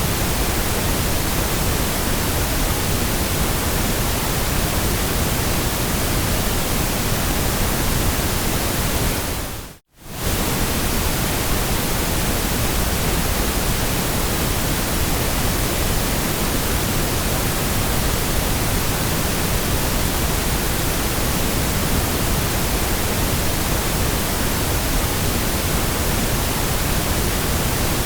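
Steady synthetic white noise, an even hiss across the whole range. About ten seconds in it fades out to silence for a moment and comes straight back.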